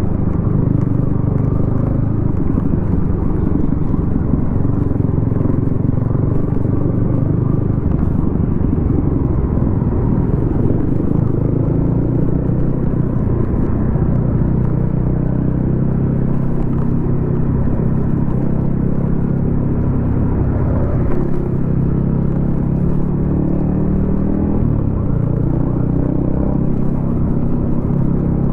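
Yamaha XSR155's single-cylinder engine running through a DIY exhaust while riding at low, steady speed, its note rising and falling a little now and then.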